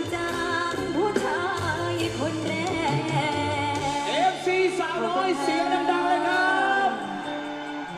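Live Thai luk thung song: a female singer's ornamented, wavering vocal line over a band, the deep bass dropping away about halfway through and a long held note near the end.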